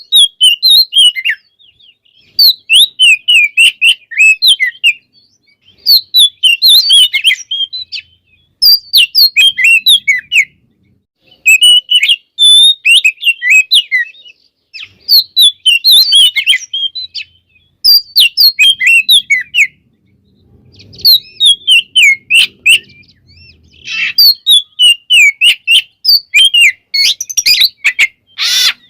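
Oriental magpie-robin (kacer) singing a full, varied song in repeated bursts of fast whistles and chirps, each about one to two seconds long, with short pauses between.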